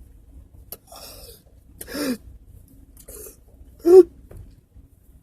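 A person making short wordless vocal outbursts, breathy gasps and two voiced cries that fall in pitch, the loudest about four seconds in.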